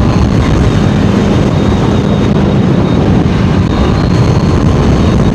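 Honda CBR650R inline-four engine running at a steady cruising speed, its note holding level, under a constant rush of riding wind.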